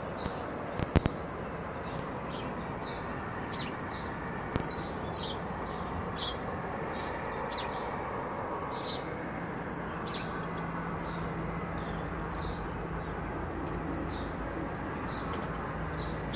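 Small birds chirping, short calls repeated every half second or so, over a steady background rumble. A couple of sharp clicks about a second in.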